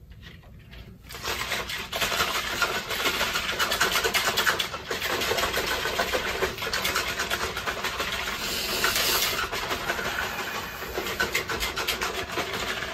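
Continuous scraping, rubbing noise that starts about a second in and keeps going, dense and rapid like something being rubbed or rasped.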